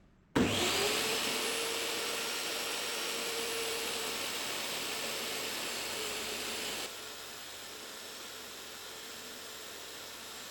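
An electric power tool's motor starting up and running steadily, its tone rising briefly as it spins up. About seven seconds in it drops suddenly to a lower level and keeps running.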